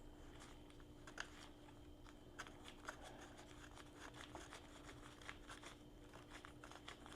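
Near silence with scattered faint clicks and light rattles of small motorcycle parts and bolts being handled, over a faint steady hum.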